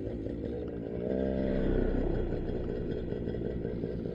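Paramotor's Moster 185 single-cylinder two-stroke engine idling with a rough, pulsing beat, revving up briefly about a second in and settling back.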